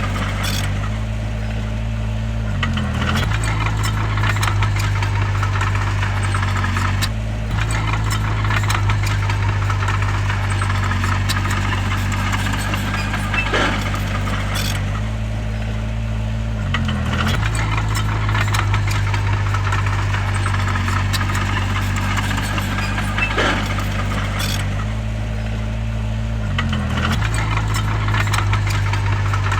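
Bulldozer diesel engine running hard, its pitch dipping briefly three times and recovering, with scattered clanks and rattles.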